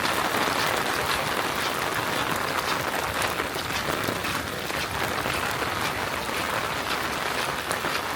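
Steady rain falling, a dense even patter with many small drop ticks.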